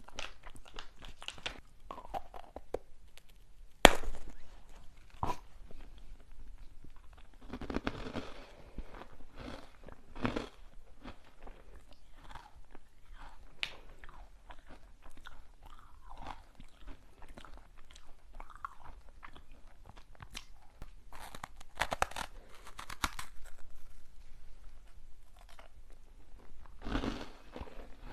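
Close-miked crunching and chewing of hard snacks, with irregular bites and crackles. One sharp loud snap about four seconds in is the loudest sound, and there are thicker bursts of crunching later on.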